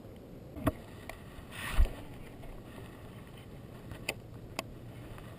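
Handling noises in a fishing kayak: a few sharp clicks and knocks, and one loud thump about two seconds in.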